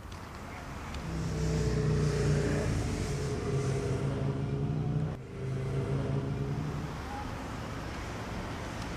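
A motor vehicle's engine running with a steady hum. It swells about a second in, drops out briefly around five seconds in, and eases off after about seven seconds.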